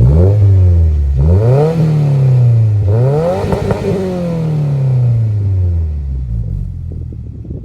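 Subaru WRX's 2.4-litre turbocharged flat-four engine revved through a new titanium single-exit catback exhaust: a quick blip, a second rev, then a longer, higher rev that falls slowly back to idle.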